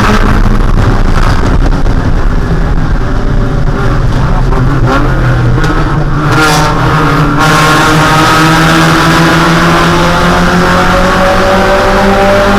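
Spec Miata's 1.6-litre four-cylinder engine running hard at steady revs, dropping off about four seconds in, then climbing steadily in pitch through the second half as the car accelerates.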